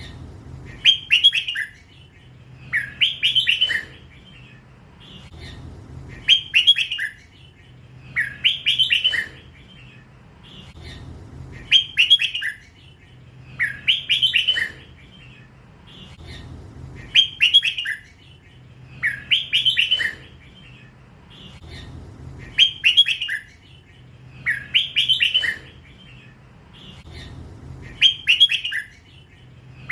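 A young red-whiskered bulbul singing its 'lak wai' song, repeating a short, loud whistled phrase about every two to three seconds.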